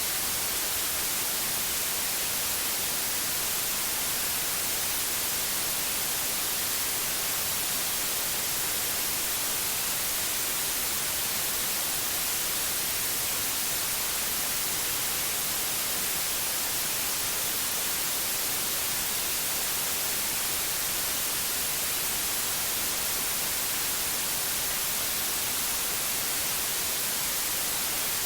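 Steady synthetic white noise: an even, unchanging hiss, brightest in the high frequencies, with no breaks.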